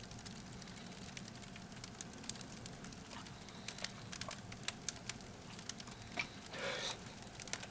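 Firewood crackling in a small titanium wood stove: scattered sharp pops and snaps over a low steady hiss. A short louder noise comes about six and a half seconds in.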